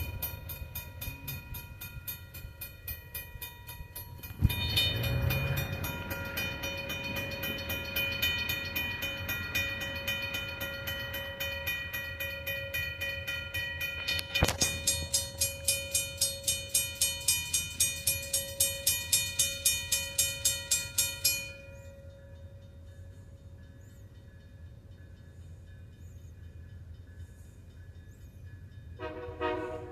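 Railroad crossing signal bell ringing in rapid, even strokes over the low rumble of a passing train. A sharp knock comes about four and a half seconds in, and the bell cuts off suddenly about two-thirds of the way through, leaving the quieter train rumble.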